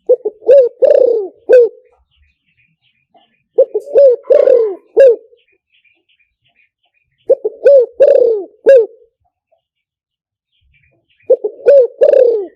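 Spotted dove cooing: a phrase of several low coos, repeated four times about every three and a half to four seconds. This is a decoy call used to lure wild spotted doves. Faint short high chirps come between the phrases.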